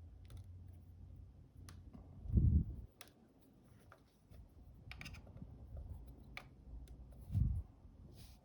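Scattered light clicks and taps of small tools and parts being handled, with two short dull thumps, one about two and a half seconds in and one near the end.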